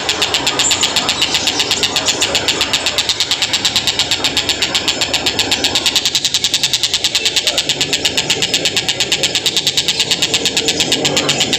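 Tengkek buto kingfisher calling in a fast, even run of repeated high notes that goes on without a break.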